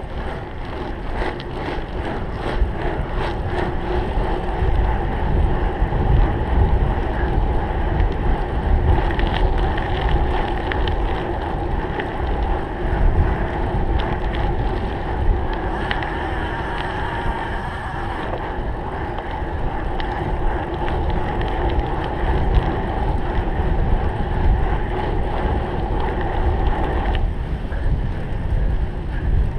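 Wind rumbling on the microphone of a camera riding on a cyclocross bike at race speed, with the bike rattling and clicking over rough ground.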